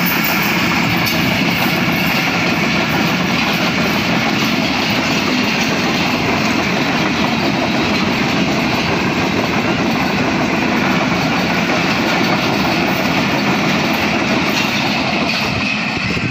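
Passenger coaches of an express train rolling past at speed: a loud, steady rumble and rattle of steel wheels on the rails, which begins to fade near the end as the last coaches pass.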